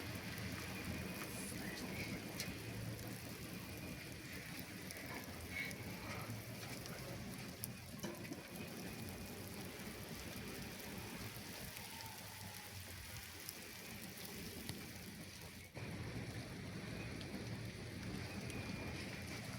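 Steady rain falling, with scattered faint drip ticks and a brief dip near three-quarters through.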